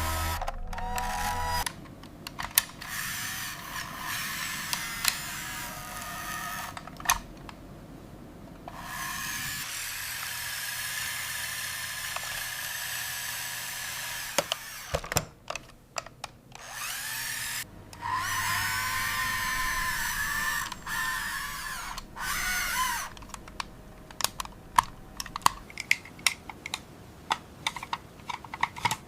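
Small electric motors of toy construction vehicles whirring in several stretches of a few seconds each, with brief pauses between. Near the end the whirring gives way to a quick run of sharp plastic clicks and taps.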